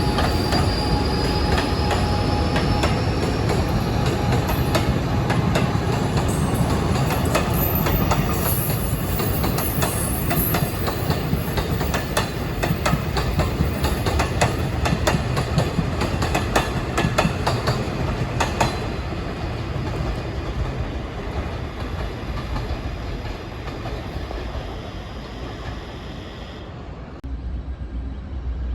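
A train rolling past on steel rails with a steady rumble. A faint high wheel squeal rises in the first few seconds, and a rapid run of clicks from the wheels crossing rail joints comes in the middle. The sound then fades, and near the end it drops abruptly to a quieter low hum.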